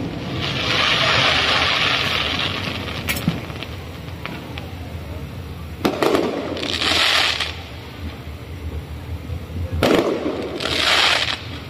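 Aerial firework shells bursting overhead. A long spell of crackling comes first, then a sharp bang about six seconds in and another near ten seconds, each followed by about a second of crackling.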